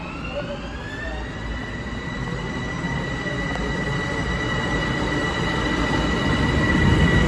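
Long Island Rail Road M7 electric train pulling into an underground station platform, its rumble growing louder as it approaches. A high whine glides up in pitch over about the first second, then holds steady.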